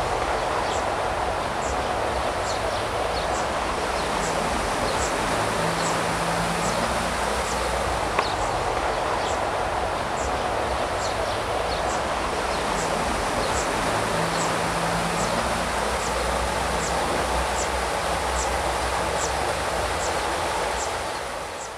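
Outdoor ambience: a steady rushing noise with a small bird's short, high chirp repeated evenly, a bit more than once a second, fading out near the end.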